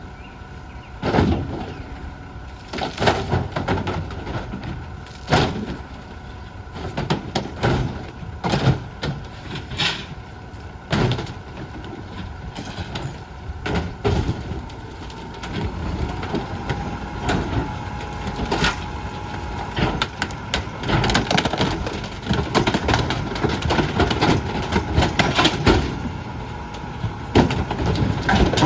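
McNeilus rear-loader garbage truck compacting bulky trash, with repeated sharp cracks and knocks of wood and other items breaking under the packer blade over the truck's running.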